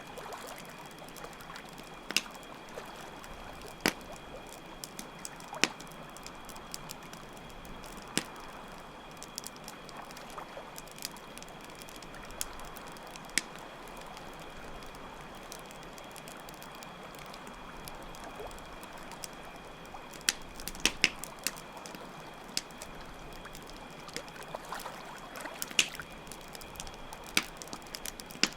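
Layered night ambience: water flowing in a steady wash, a campfire crackling with sharp, irregular pops, and crickets chirping in a steady high trill.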